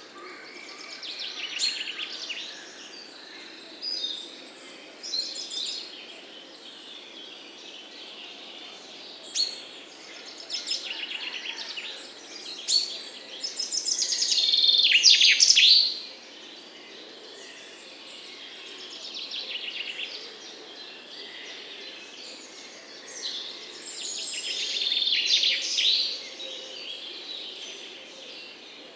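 Several songbirds singing and chirping in overlapping phrases, some of them rapid trills; the loudest burst of song comes about halfway through, another loud stretch near the end, over a faint steady outdoor background hiss.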